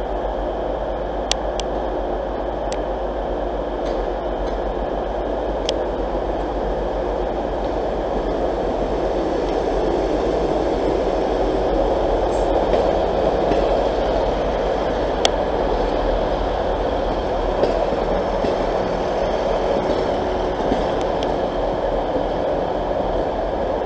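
A Class 158 Express Sprinter diesel multiple unit drawing into the platform and passing close by: a steady rumble of engine and wheels that grows a little louder midway, with a few sharp clicks.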